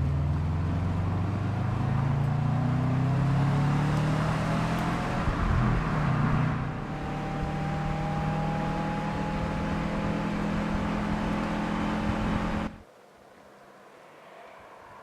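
2010 Subaru WRX STI's turbocharged flat-four engine and exhaust accelerating, its note rising in pitch for about six seconds. It then holds a steadier, slightly quieter note, and cuts off abruptly near the end, leaving only faint background noise.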